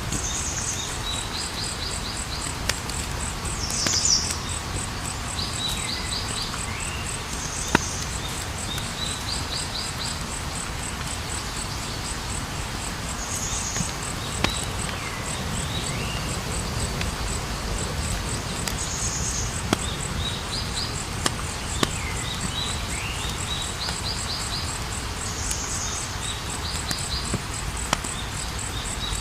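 Wood fire crackling, with sharp pops every few seconds, over a steady high cricket chirping and a short chirping call that comes back every few seconds.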